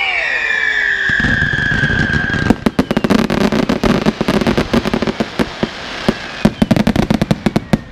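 Fireworks going off: whistling rockets with falling whistles for the first couple of seconds, then a rapid barrage of sharp crackles and bangs.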